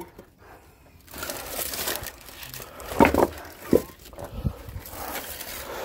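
Rustling and crinkling of something being handled, with a brief voice sound about three seconds in.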